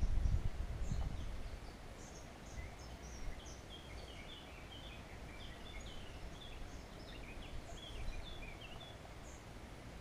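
Birds chirping in many short, quick notes over a faint steady outdoor hiss, with a low rumble in the first second or so.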